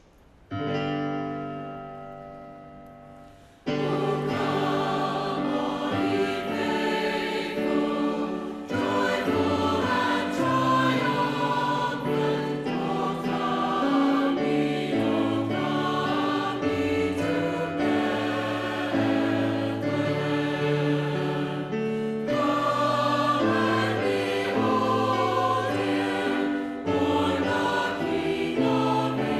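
A choir singing in harmony. It enters about three and a half seconds in, after a single sustained chord rings out and fades.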